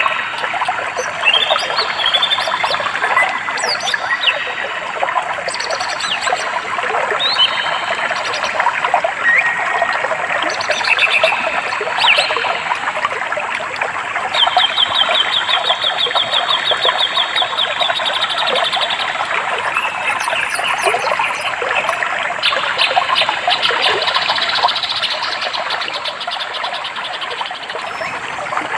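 Steady rushing of a flowing stream, with songbirds chirping over it throughout; one bird sings a fast, even trill for several seconds around the middle, and another trill comes near the end.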